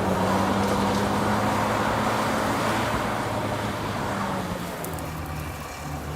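Heavy diesel engine of earthmoving machinery running steadily, with a low, even engine hum. It eases off after about three seconds and is lowest just before the end.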